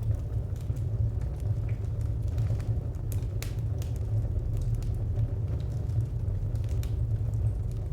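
Fire crackling: a steady low rumble of burning with irregular sharp pops and crackles scattered through it.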